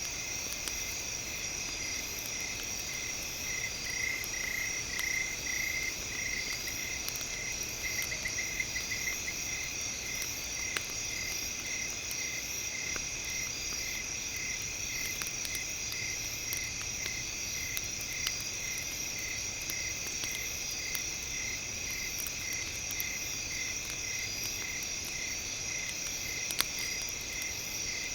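Campfire ambience with night insects: a steady high-pitched insect drone, a chirp repeating about twice a second with a quick trill partway through, and a few isolated sharp pops from the burning wood.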